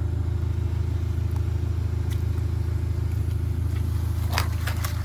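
Small engine running steadily, a low drone with a fast, even pulse, with a few clicks and knocks near the end.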